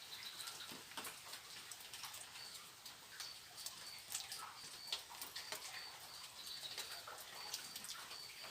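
Forest wildlife ambience: a short, high chirp repeating about twice a second from about three seconds in, with scattered faint clicks and ticks.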